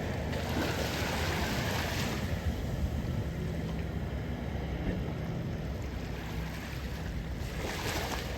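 Gulf surf washing onto the beach, with two louder swells of hiss, one just after the start and one near the end, and a steady low rumble of wind on the microphone.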